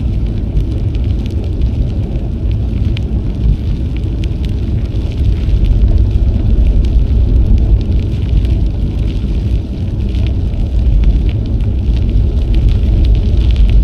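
Wind buffeting the action camera's microphone while cycling, a loud, uneven low rumble that grows stronger about five seconds in, with faint crackle from the bike's tyres rolling on the trail.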